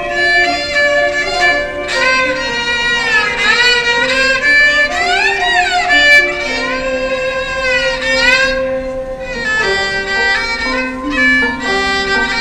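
Bowed string instrument playing a melody with many sliding, swooping notes and wavering pitch, over lower held accompanying notes that change every second or so.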